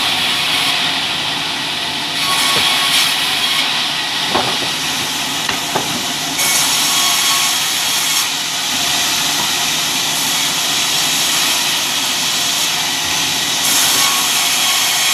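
Sawmill saw cutting albasia timber: a loud, steady, hissing machine noise that grows louder a few times, with a few light knocks.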